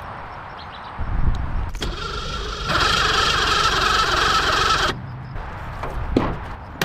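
A motor starting and running, in short stretches that begin and cut off abruptly.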